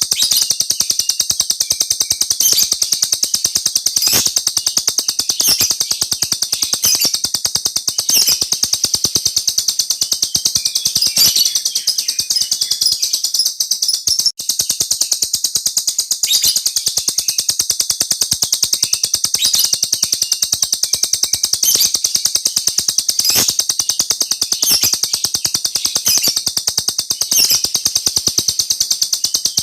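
A small songbird singing a long, continuous rolling trill of rapid high-pitched notes, broken only once, briefly, about halfway through.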